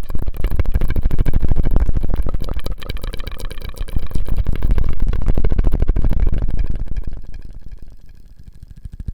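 Close-miked ASMR mouth sounds: a dense run of rapid clicks and crackles over a low rumble, dying down after about seven seconds.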